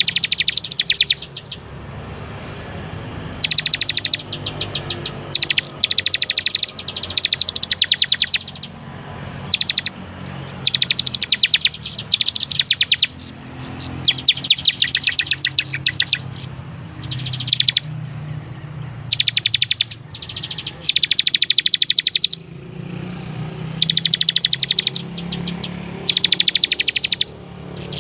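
Bar-winged prinia (ciblek) singing vigorously: repeated bursts of fast, high-pitched chattering notes, each about a second long, coming every second or two over a steady low hum.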